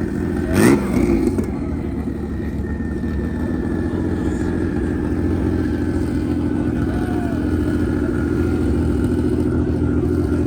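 Vehicle engines running steadily at a car meet, with one sharp crack or pop about half a second in.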